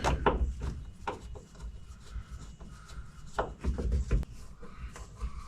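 Interior trim parts rubbing and knocking against the truck cab as they are handled and fitted back in place, with a few dull thumps.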